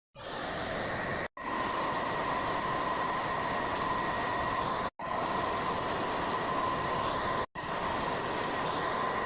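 A machine running steadily, a dense grinding noise with a high whine over it, broken by three abrupt dropouts.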